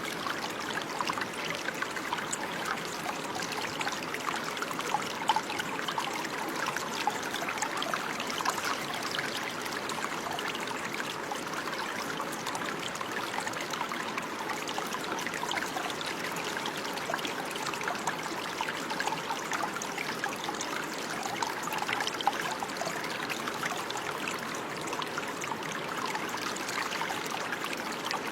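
Running water trickling and babbling steadily, a continuous splashing with many small droplet flickers, like a stream.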